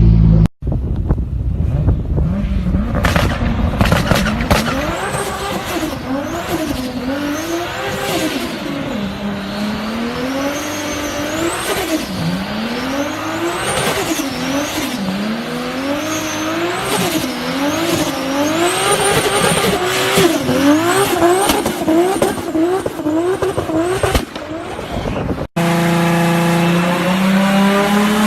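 Toyota Supra's turbocharged inline-six engine revving up and falling back again and again under hard driving, with sharp cracks and pops through the exhaust. Near the end a cut brings in another run where the engine pulls steadily up in pitch.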